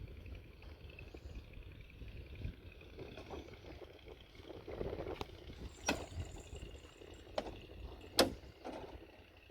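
Excavator engine running low and steady, with a few sharp knocks in the second half; the loudest comes near the end.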